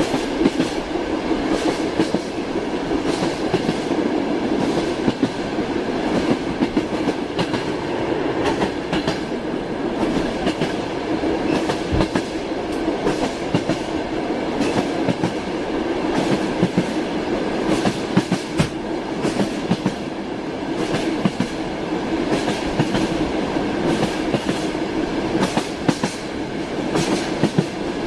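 Train wheels clattering over rail joints: a steady running rumble with frequent sharp clicks and knocks.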